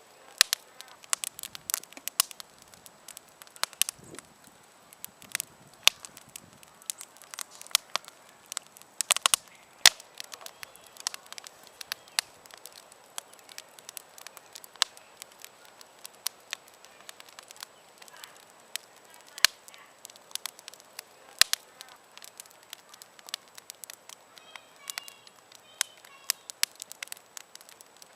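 Wood campfire crackling: irregular sharp pops and snaps, several a second, over a faint hiss.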